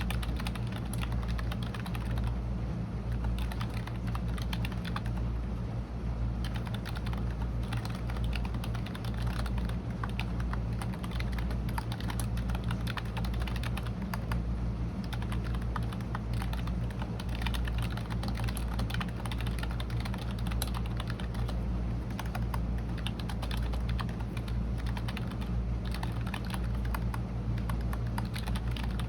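Continuous typing on a computer keyboard: a dense, irregular stream of keystrokes, with a steady low hum underneath.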